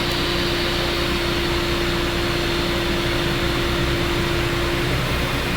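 A steady mechanical hum with a constant pitched drone, which drops out near the end.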